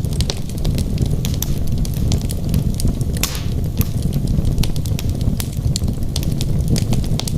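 Wood fire burning in a fireplace: a steady low rumble of flames under frequent sharp crackles and pops from the logs, with a brief hiss a little past three seconds in.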